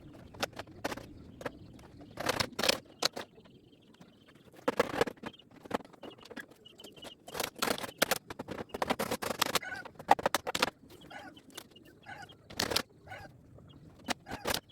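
Irregular knocks and clatters of hand construction work on a roof frame, coming in short clusters of strikes, with faint bird chirps between them.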